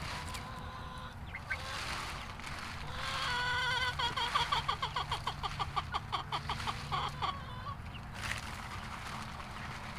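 Chickens clucking, with one bird giving a rapid run of repeated calls, about five a second, for some four seconds in the middle.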